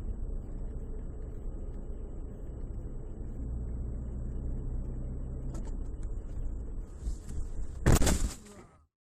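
Steady low rumble of a car driving, heard from inside the cabin on a dashcam. About eight seconds in comes a loud, brief crash lasting about half a second, and then the sound cuts off.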